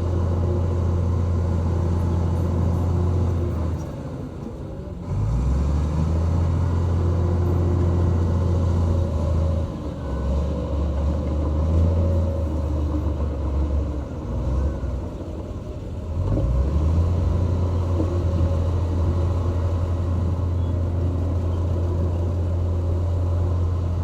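Diesel engine of a heavy earthmoving machine running hard with a steady low drone. It eases off twice, about four seconds in and again past the middle, and each time revs back up.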